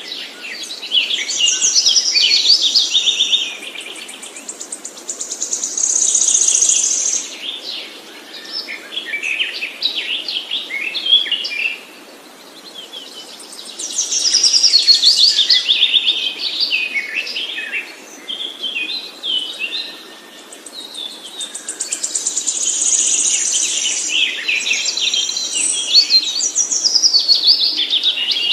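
Songbird singing: long, rapid phrases of chirps and trills, broken by brief pauses of a second or two.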